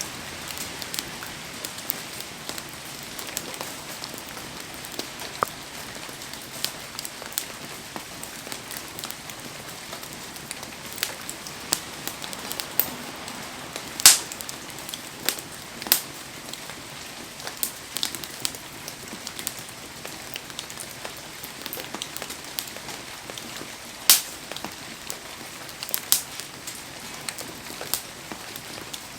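A wood campfire crackling and popping in heavy rain: a steady hiss of rain with frequent sharp crackles, a few louder pops about halfway through and near the end.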